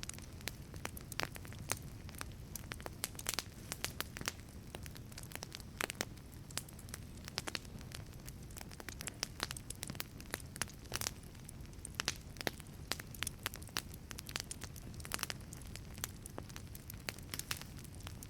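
Wood fire burning in a wood-fired pizza oven, crackling with irregular sharp pops over a steady low rumble of the flames.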